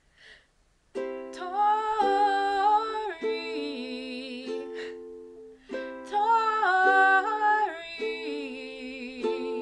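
A woman singing to her own strummed string accompaniment. The chords start about a second in, and her voice sings two phrases over them.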